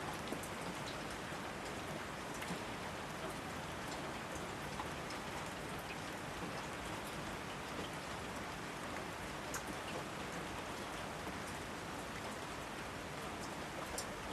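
Steady rainfall, an even hiss of rain with scattered individual drops ticking sharply on nearby surfaces.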